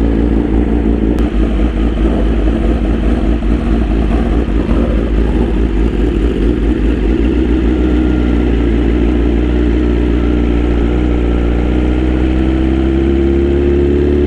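BMW S1000RR inline-four motorcycle engine under way, heard from the rider's seat with wind rush. The engine holds a fairly steady note, then climbs slowly in pitch over the last few seconds as the bike accelerates.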